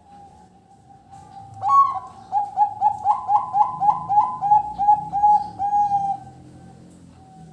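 Zebra dove (perkutut) singing: a loud opening note, then a quick rhythmic run of about a dozen short coos, roughly three a second, that ends well before the close.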